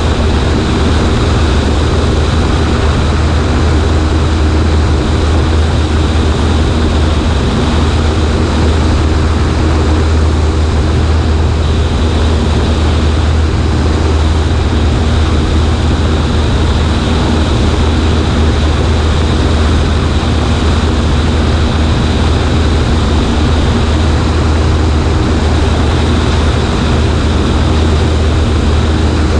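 Cessna 140A's piston engine and propeller running steadily at a constant setting, a deep even drone under a broad rush of air.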